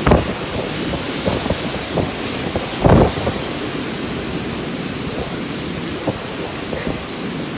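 Heavy thunderstorm: a steady rush of rain and wind, with short, sudden loud bursts, the loudest about three seconds in.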